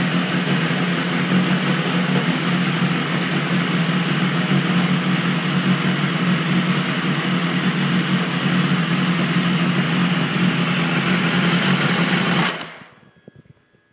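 BMW S1000RR inline-four engine idling in neutral, a steady, busy running sound; the idle is rough, which the owner suspects comes from bad oxygen sensors in the warranty replacement exhaust. About twelve and a half seconds in the engine is shut off and the sound cuts off suddenly.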